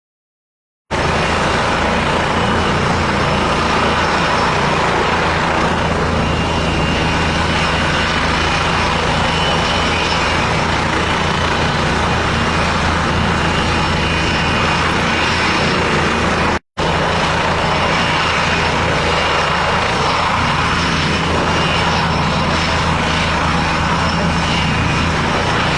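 Leonardo AW169 twin-engine helicopter running, its engines and rotor making a loud, steady sound with a low hum. It starts about a second in and cuts out for an instant just past the middle.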